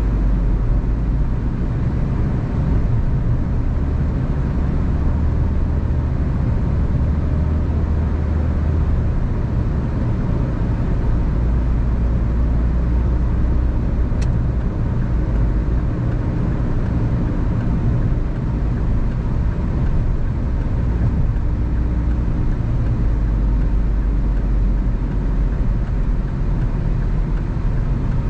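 Car driving at a steady pace: continuous low road and engine noise.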